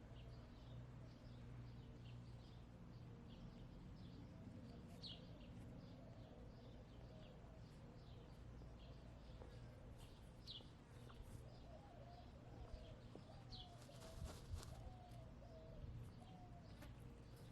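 Quiet backyard ambience: wild birds give short high chirps now and then, and in the second half hens make a soft, wavering low murmur, with a brief rustle late on.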